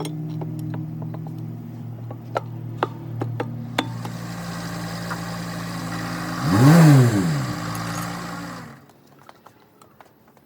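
Engine idling with a few light clicks. Just under seven seconds in it is revved once, rising and falling in pitch, and it stops abruptly near the end.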